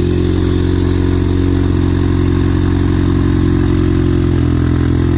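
Turbocharged four-cylinder engine of a Ford Mustang EcoBoost idling steadily just after starting. It is running on water instead of coolant after a torn coolant hose was swapped for a spare.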